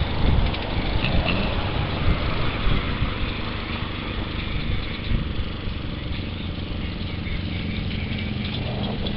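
A vehicle engine idling steadily, with a few brief rises in level in the first three seconds.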